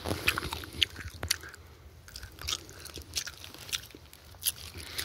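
A person chewing dry field corn kernels bitten off the cob, the hard kernels cracking between the teeth in irregular crunches.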